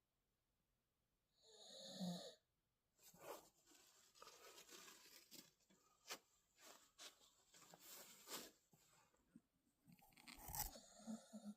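A sleeping pit bull puppy gives one short wheezing snore about two seconds in. Several seconds of faint, irregular clicks and crackles follow, a little louder near the end.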